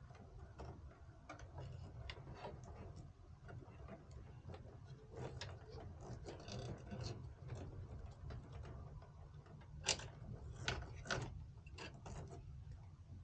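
Irregular small clicks and taps of computer hardware being handled, with a few sharper clicks about ten and eleven seconds in, over a low steady hum.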